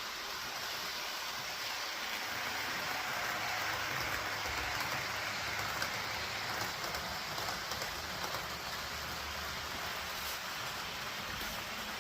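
Excursion train running on its track: a steady rushing noise, with a low rumble building a few seconds in.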